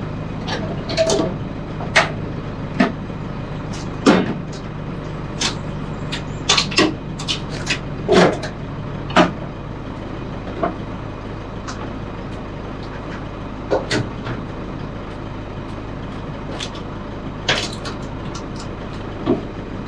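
A vehicle engine idling steadily, with scattered clunks and knocks over it, the loudest about four and eight seconds in.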